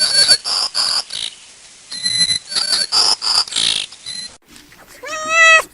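Rapid high-pitched squeaking calls from a small animal, coming in quick short bursts. After a break, a domestic cat meows once near the end.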